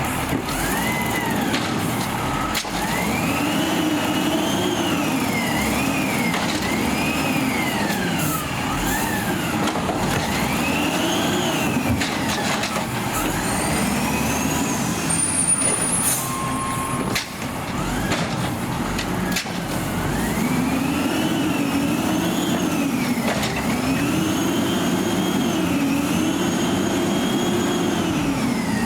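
A Peterbilt 320 garbage truck's diesel engine revs up and falls back over and over in a steady cycle. A few sharp knocks and hisses are heard along the way.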